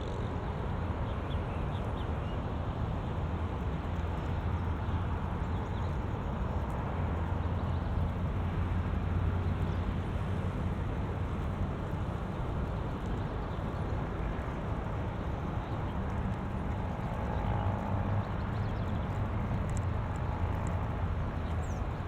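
Steady rumble of wind and road noise during a bicycle ride, with motor traffic running alongside.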